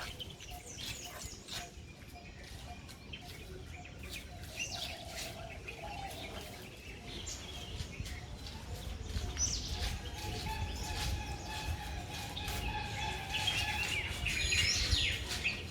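Birds chirping: many short rising and falling calls, busiest near the end, over a low rumble.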